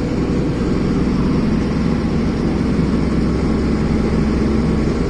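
Heavy 14-wheeler goods truck running steadily under load, its diesel engine droning with road noise throughout.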